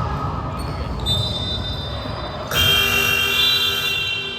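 Gym scoreboard buzzer sounding once, a loud steady electronic blare that starts about halfway through and lasts about a second and a half, over basketball court noise.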